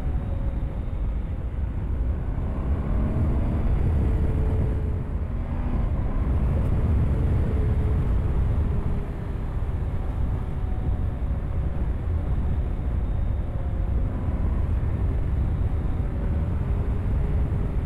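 Motorcycle engine running at road speed under a heavy wind rumble on the microphone, its note rising and falling repeatedly with the throttle.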